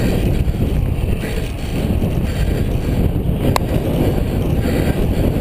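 Wind buffeting the microphone of a camera on a racing bicycle moving at speed in a criterium pack, a steady low rumble, with one brief sharp tick about three and a half seconds in.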